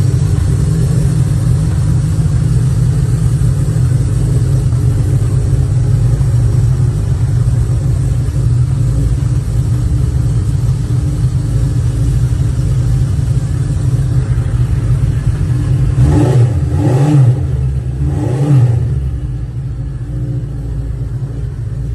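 1974 Honda CB cafe racer's engine running at a steady idle, then revved twice in quick succession near the end, the pitch rising and falling each time.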